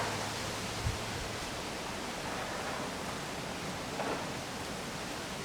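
Strong wind: a steady rushing noise, with a short low thump of wind buffeting the microphone about a second in.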